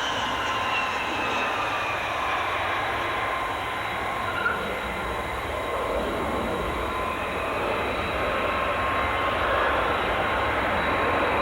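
Jet airliner engines running: a steady rush with whining tones that fall slowly in pitch over the first few seconds.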